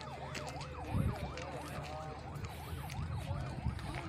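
Emergency vehicle siren in a fast yelp, its pitch sweeping up and down about three times a second over a low engine-like rumble, with a louder low thump about a second in.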